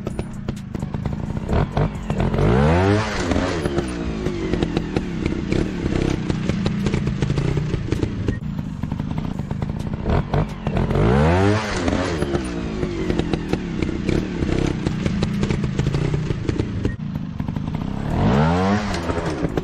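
Motorcycle engine revving up and falling back three times, about eight seconds apart, over a steady lower engine running sound, with many short clattering clicks throughout.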